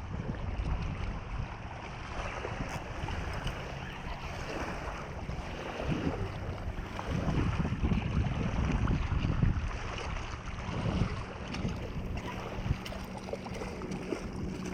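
Wind buffeting the microphone in gusts over the wash of waves, swelling strongest about halfway through.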